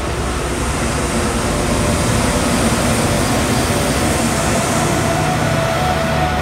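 Freight train's diesel locomotives, an SCT class and CSR006, passing close by with their engines running over the rumble of the train. It grows louder over the first couple of seconds as the locomotives draw level, then holds steady.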